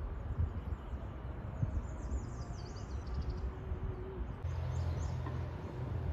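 Outdoor ambience: a small bird chirps in a quick run of short high notes from about two to three and a half seconds in, over a steady low rumble.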